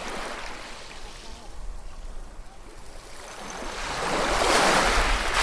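Ocean waves washing in: a small wash at the start, then a lull, then a bigger wave building up and breaking into a loud rush of surf about four seconds in.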